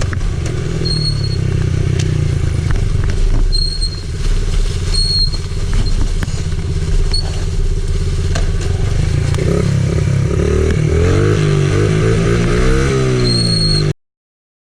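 Quad (ATV) engine running under way on a dirt trail, with short high squeaks a few times, then the engine speed rising and falling several times near the end before the sound cuts off suddenly.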